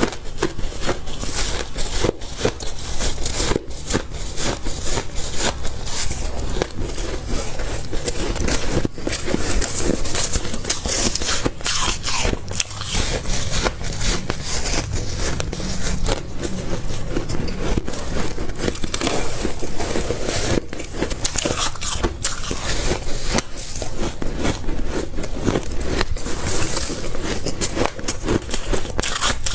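Close-miked biting and chewing of ice: a dense, unbroken run of crackling crunches.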